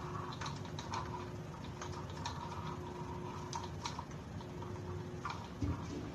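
Light, irregular clicks and taps of a utensil against a bowl while batter ingredients are being mixed, over a faint steady hum.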